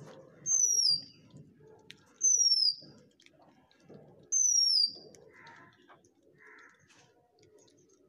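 A bird's high whistled call, falling in pitch, repeated three times about two seconds apart, with faint pecking sounds in between.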